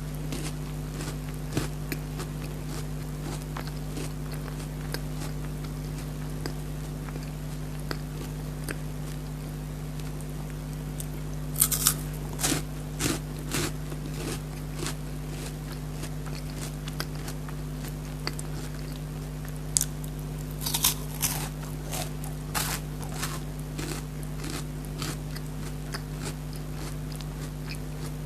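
Crisp crunching bites and chewing of a chocolate-coated Perk wafer bar with melted chocolate, close to the microphone: quiet scattered crunches, with two louder bursts of crunching near the middle and about three-quarters through. A steady low hum runs underneath.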